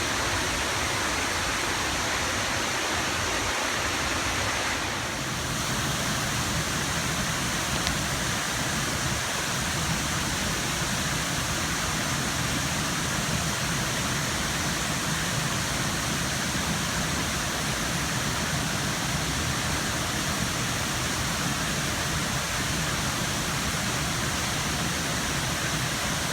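Patapsco River rushing below a dam: a steady noise of flowing water, growing fuller and deeper about five seconds in.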